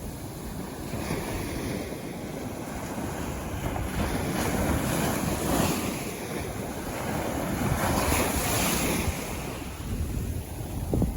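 Sea waves breaking and washing on a beach, the surf swelling and easing in slow surges, with wind noise on the microphone.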